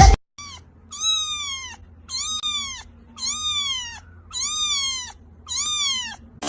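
Cat meowing six times in an even series, high-pitched calls that each rise briefly and fall, all almost identical.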